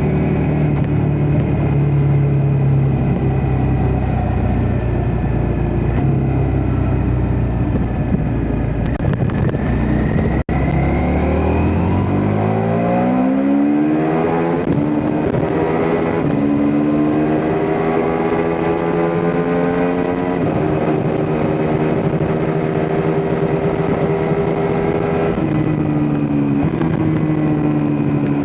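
Ducati Multistrada V4 S's 1158 cc V4 engine running: a steady low note, then about halfway through it revs up in a rising sweep and holds a higher, steady note that dips briefly near the end.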